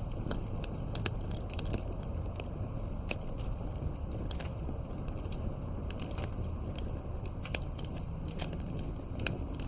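Wood campfire burning with a low, steady roar and irregular sharp crackles and pops from the burning logs, several a second.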